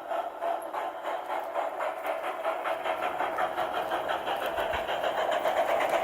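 LGB Mogul G-scale model steam locomotive running under power: a steady mechanical running sound with a fast, even rhythm, growing slowly louder. The engine's small sound chip is old and worn and due for replacement.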